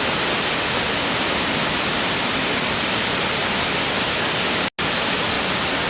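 Steady rush of a waterfall, an even wash of falling water that cuts out for a split second about three-quarters of the way through.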